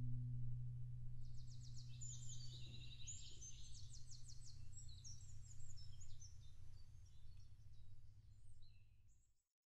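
Woodland birds singing, with quick repeated trills and chirps, over a faint low drone as the last cello note dies away at the start. The sound cuts off suddenly near the end.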